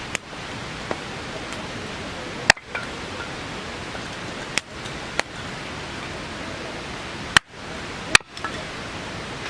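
Steady hiss of heavy rain, with a handful of sharp, loud single taps scattered through it, the loudest about two and a half seconds in and twice near the end.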